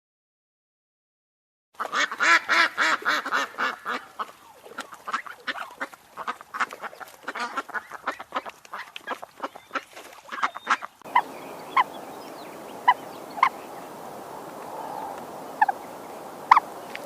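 A flock of waterfowl calling rapidly, many calls a second, after a second and a half of silence. About eleven seconds in, it cuts to a steady hiss with a few short, scattered calls.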